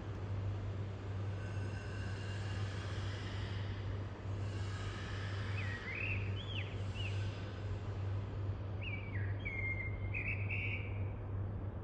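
Common blackbird singing: two short phrases of sweeping whistled notes, one around halfway through and one near the end, over a steady background hum and hiss.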